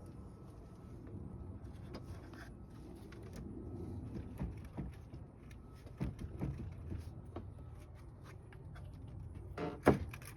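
Hands and tools working on a car: scattered light clicks and knocks over a low steady rumble, with one sharp, loud knock near the end.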